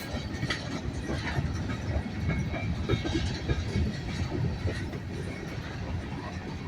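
Freight train rolling past: a steady low rumble with irregular clanks and knocks from the wheels and cars.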